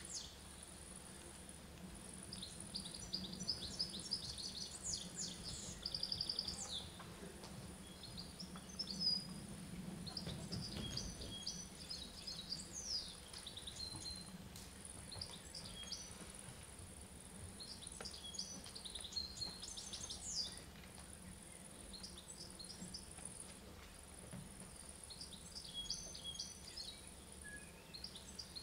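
Birdsong: short chirps and trills in bursts every few seconds, over a faint steady hum.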